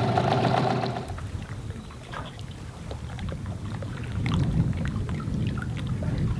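A steady motor hum stops about a second in, and then water laps and sloshes against a small boat's hull with small irregular splashes.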